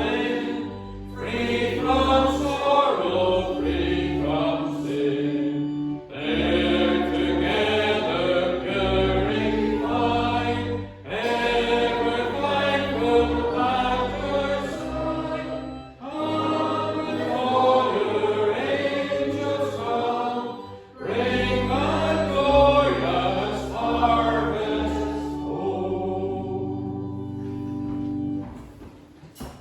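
Congregation singing a hymn over steady instrumental chords, in phrases of about five seconds with short breaks. A final chord is held and fades near the end.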